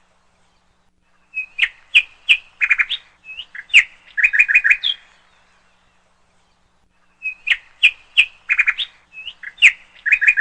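A songbird singing: two bouts of sharp chirps and quick trills, the second starting about six seconds after the first, with silence between.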